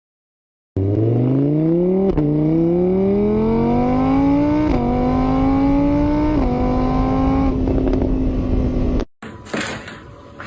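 A car engine accelerating hard through the gears: its pitch climbs, drops at each of three upshifts, then holds steady before cutting off. Short knocks and clicks follow at the end.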